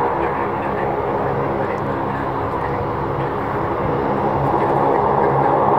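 Jet engines of a Boeing 737-800 airliner, its CFM56 turbofans, running with a steady hum of several tones, growing louder near the end.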